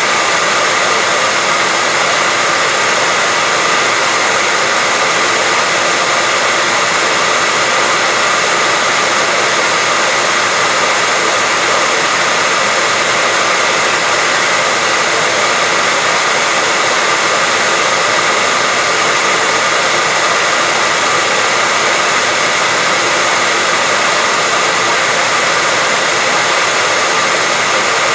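Hair dryer running steadily: an even, unchanging rush of air with a faint steady whine in it.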